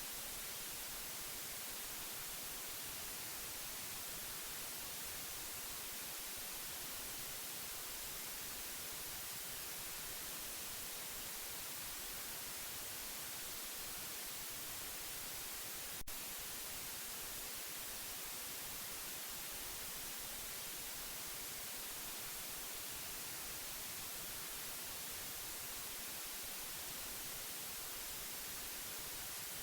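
Steady white noise: an even, unbroken hiss, brightest in the treble. A single short click sounds about sixteen seconds in.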